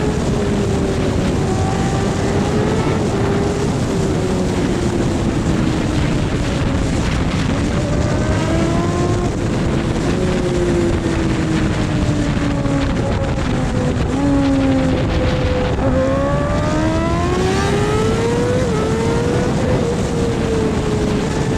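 Motorcycle engine running at speed with wind rush. Its pitch sags slowly for most of the stretch, then climbs steadily about three-quarters of the way through as the throttle opens.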